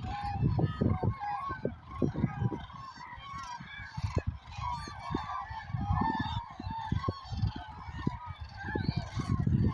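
A large mixed flock of geese and common cranes calling over one another: many short, overlapping honking calls. Uneven low rumbling comes and goes beneath them.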